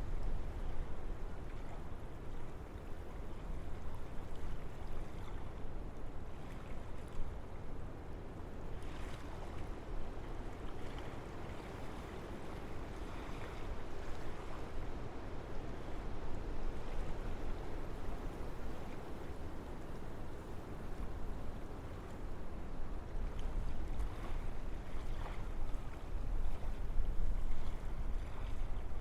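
Wind blowing through forest trees: a steady rushing with a deep rumble, swelling and easing in gusts, a little stronger near the end.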